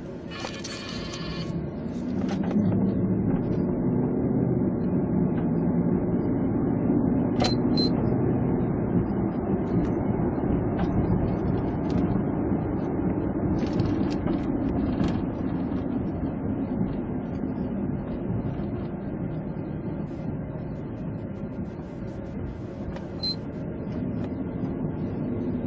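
Police cruiser's engine and tyre noise heard from inside the car while driving, getting louder about two seconds in and then staying steady.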